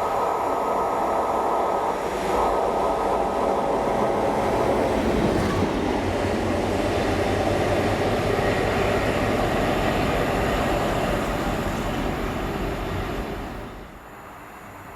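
A train passing close by, a loud steady rumble and rush with a hum of even tones in its first half, then dropping away sharply near the end.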